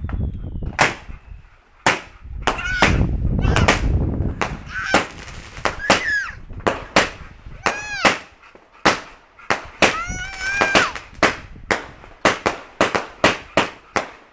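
A string of fireworks bangs and cracks, coming thick and fast in the second half, with a low rumble under the first few seconds.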